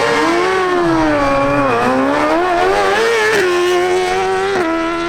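Suzuki GSX-R1000 inline-four sportbike engine at full throttle on a quarter-mile drag run, a high-revving howl whose pitch wavers and then drops in two sharp steps at upshifts, about three and a half and four and a half seconds in.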